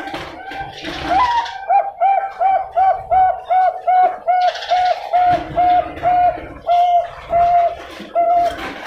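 Zebra dove (Thai-bred 'perkutut bangkok') singing a long run of short, evenly spaced coos, about three a second, the run slowing slightly near the end.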